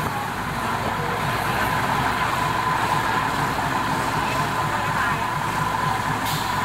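Diesel railcar commuter train running, heard from an open window of the carriage: a steady rush and rumble with a constant high hum through it. A brief click comes near the end.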